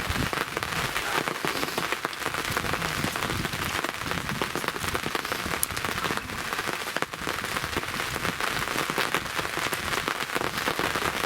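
Steady heavy rain pattering, a dense crackle of close drop hits with one sharper tick a little past halfway.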